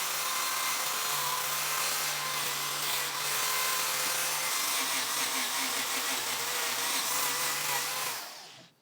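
Power tool working wood, running steadily with an even whirring hiss, then switched off and dying away just before the end.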